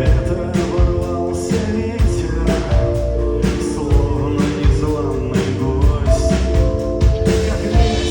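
Live rock band music with a steady drum beat under held chords.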